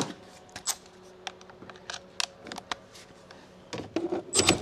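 Irregular light metallic clicks of a quarter-inch-drive ratchet with a 10 mm socket being worked on a car battery terminal nut, with a quicker run of clicks near the end.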